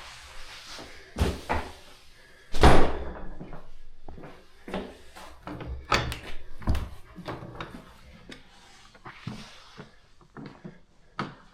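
A heavy church door being worked: a couple of latch clicks, then a loud bang with a ringing echo about three seconds in, followed by scattered knocks and clicks.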